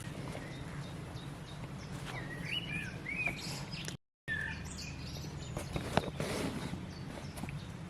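Small birds chirping in short calls over a steady low outdoor background. The sound cuts out completely for a moment about four seconds in.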